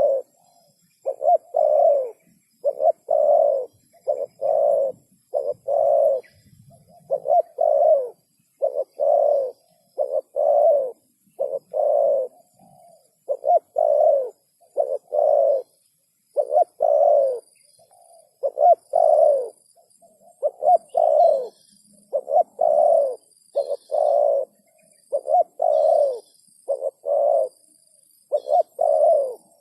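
Spotted dove (tekukur) cooing over and over, its low coo notes coming in short clusters of two or three with brief pauses between phrases. Faint high-pitched chirps sound in the background from about halfway on.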